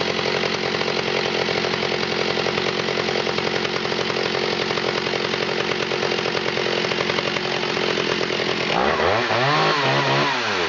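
Stihl 028 two-stroke chainsaw engine running steadily, then revved up and let back down near the end.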